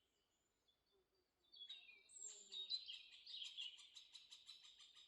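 Faint birdsong fading in about a second and a half in: high chirps and whistles, settling into a fast, even run of repeated notes.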